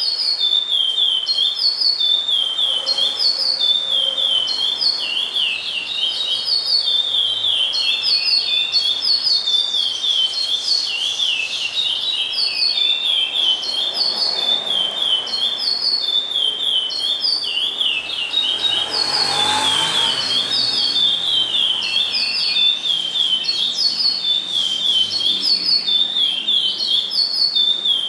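A songbird singing a fast, steady run of short whistled notes, repeated about twice a second without a break.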